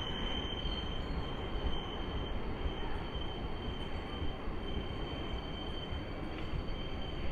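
Old electric multiple unit (EMU) local train passing below, its wheels running on the rails with a steady high-pitched squeal over the noise of the coaches.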